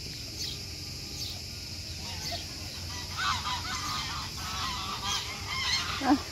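A flock of domestic geese honking, many overlapping calls that start about halfway through and grow louder and busier, as the birds crowd in hungry for bread.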